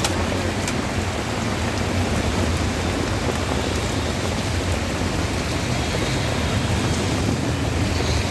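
Steady heavy rain falling, an even hiss with a low rumble beneath it and a few faint ticks of drops.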